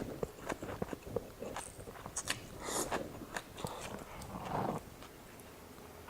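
A person eating close to the microphone: chewing and mouth sounds with many short clicks and taps, and a few brief hissy bursts.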